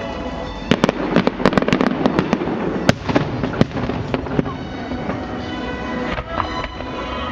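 Fireworks display going off in a rapid string of sharp cracks and pops, thickest in the first half, with show music playing underneath.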